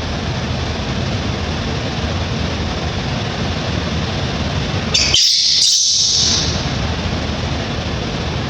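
Baby monkey giving a brief shrill squeal about five seconds in, over a steady hiss of background noise.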